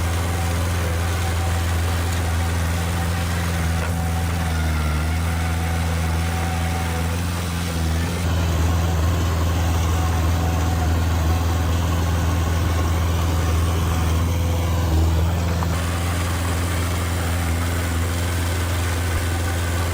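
Heavy earthmoving machine's diesel engine running steadily at low revs, with a deep, even hum that grows a little louder for several seconds in the middle.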